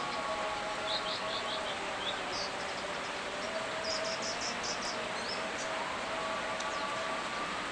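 Steady rain hiss, with a bird calling in several quick runs of short chirps over it. A faint, steady, slightly wavering hum sits underneath.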